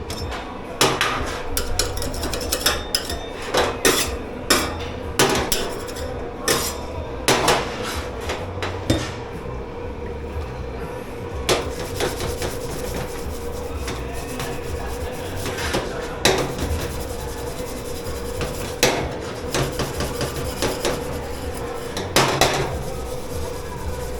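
Dishes, pots and cutlery clattering and knocking as they are handled at a dish pit, in quick runs over the first ten seconds and more spaced out after. A steady hum runs underneath.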